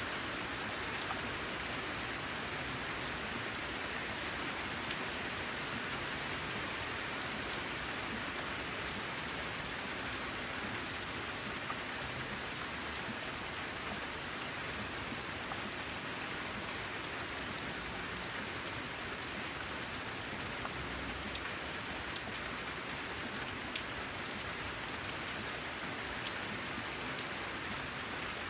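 Steady rain falling on a corrugated metal roof: an even hiss with scattered sharper drop ticks.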